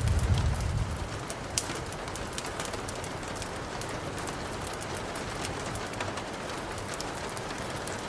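Steady hiss of rain with frequent sharp crackles from a burning wood fire. A low rumble fades out about a second in.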